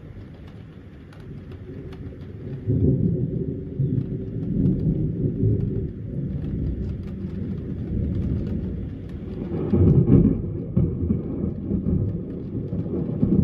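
Thunder rumbling, swelling about three seconds in and loudest about ten seconds in, with rain falling.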